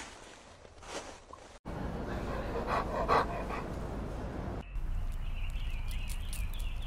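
A pug panting, with a few louder breaths about three seconds in. Near the end the panting gives way to faint high chirps and small ticks.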